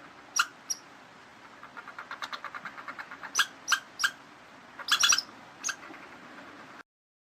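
Small animal squeaking: short, high squeaks in groups of two or three, with a faint rapid chattering in between about two seconds in. The sound cuts off abruptly near the end.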